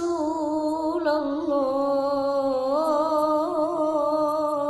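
One voice singing a long, drawn-out 'ya' of a sholawat (Islamic devotional song to the Prophet), with the note held and ornamented in wavering melismatic turns about three seconds in.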